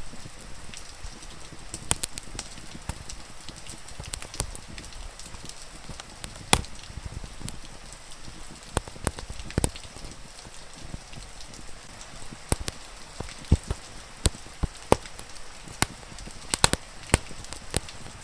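Steady hiss of rain with irregular sharp pops and crackles from a wood fire.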